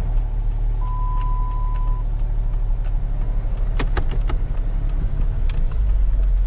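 Car engine running with a steady low rumble that grows heavier near the end. A single steady electronic beep sounds about a second in and lasts about a second, and a few sharp clicks come around four seconds in.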